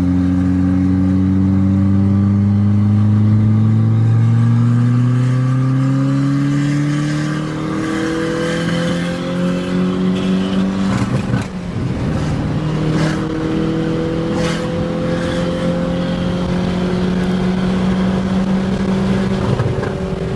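Car engine heard from inside the cabin under acceleration: its pitch climbs steadily for about seven seconds, dips at a gear change and climbs again, with another shift about eleven seconds in, after which it pulls on at a steady, slowly rising pitch. A few sharp clicks come after the second shift.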